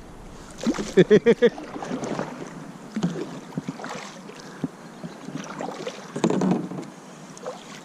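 Water splashing and light knocks around a kayak as a freshly hooked warmouth is brought alongside and landed, with a noisier splash about six seconds in.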